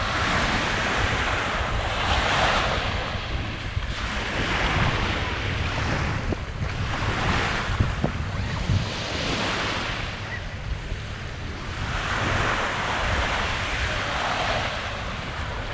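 Small waves breaking and washing up a sandy beach, swelling and fading every two to three seconds. Wind buffets the microphone underneath with a steady low rumble.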